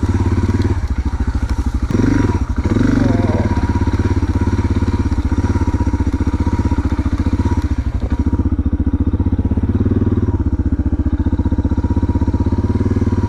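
Suzuki DR650's single-cylinder four-stroke engine running steadily under way at low speed, with a brief swell in level about two seconds in.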